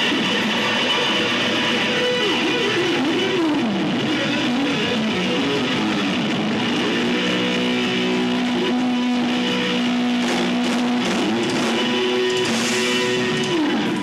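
Live rock band playing, led by electric guitar with bending, sliding notes and long held notes over the band.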